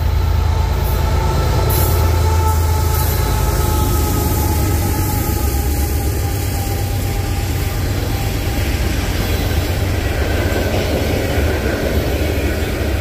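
Freight train cars, covered hoppers and then tank cars, rolling past close by: a steady loud rumble of steel wheels on rail, with a faint steady wheel squeal over it.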